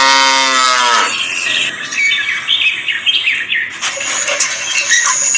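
Birds chirping in short gliding notes, after a pitched animal call that falls away and stops about a second in.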